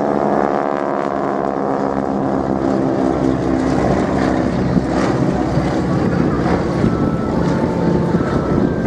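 Radial engines of Pratt & Whitney-powered Boeing Stearman biplanes flying past during a wingwalking display. The engine note falls in pitch over the first few seconds as they pass, over a steady rush of wind.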